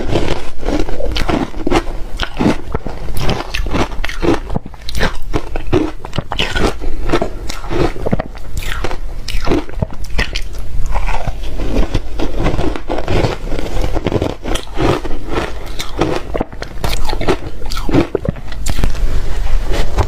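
A person biting and chewing shaved refrigerator ice up close, a steady run of wet, gritty crunches coming several times a second.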